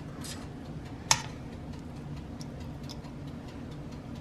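Light clicks and clinks of a utensil against a pot as cooked chicken pieces are lifted out, with one sharp clink about a second in, over a steady low hum.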